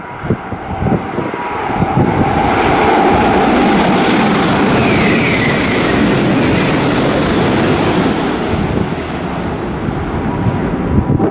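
Shinkansen bullet train running through the station at speed. A rushing roar builds over a couple of seconds, holds for about five seconds, then dies away near the end.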